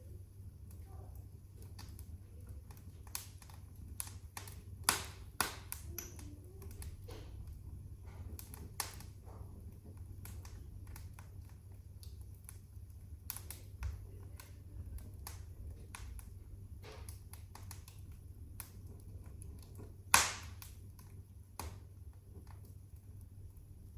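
Wood fire crackling in a fireplace: irregular sharp snaps and pops over a low steady rumble, with two louder pops, about five seconds in and again around twenty seconds in.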